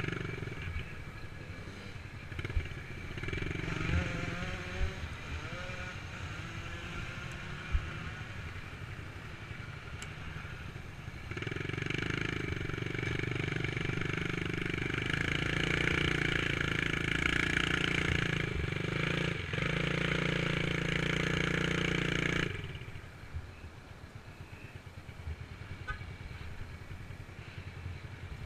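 Dirt bike engine running, faint with small rises in pitch at first, then louder and steady for about ten seconds before dropping away suddenly.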